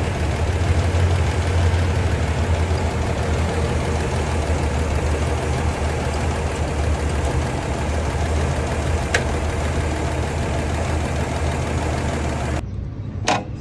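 Toyota FJ40's straight-six petrol engine idling steadily with a strong low rumble. Near the end the sound changes suddenly to a quieter, duller engine sound, and a single sharp click follows.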